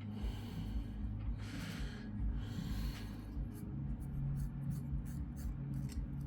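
Cotton buds rubbing and scraping packed dust out of a laptop's cooling area: one longer rub, then, from about halfway through, a quick run of short scratchy strokes.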